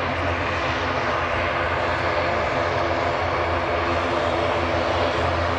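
Airliner engines running steadily at close range, a loud even noise with faint steady tones in it.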